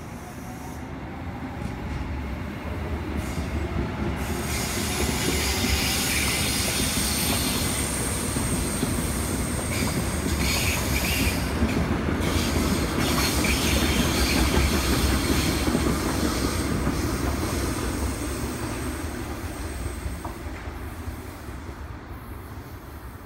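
Seoul Subway Line 1 electric commuter train pulling out of a station and passing. A motor whine rises in pitch as it gathers speed over the first few seconds, with a rumble of wheels on rail and a high wheel squeal. The sound builds to a peak in the middle and fades as the train moves off.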